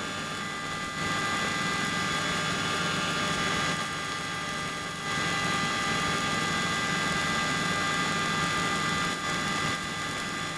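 Helicopter running steadily, its engine and rotor noise a constant hum with several fixed whine tones over it.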